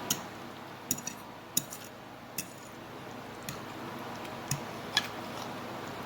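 A fork or other eating utensil clicking and tapping against a plate, about eight sharp, irregular clicks over a few seconds while eating spaghetti.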